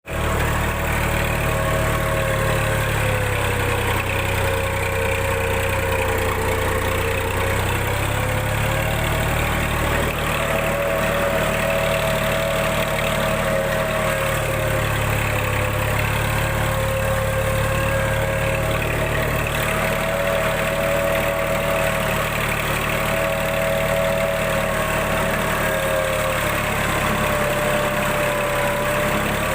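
Massey Ferguson 9000 tractor's diesel engine running steadily, its pitch drifting slowly up and down.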